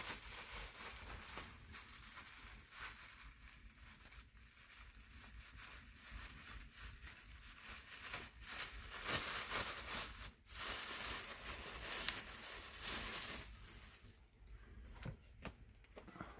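Irregular rustling and crinkling with scattered small knocks, louder in two spells past the middle.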